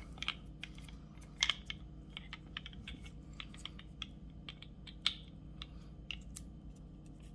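Light, irregular clicks and taps of small metal and plastic parts being handled: watch case parts and crystal press dies being fitted and shifted on a workbench, with two slightly louder clicks about a second and a half in and again about five seconds in.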